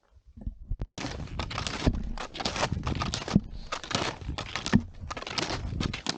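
Footsteps in ski boots crunching on frozen ground, in a quick, irregular run that starts about a second in.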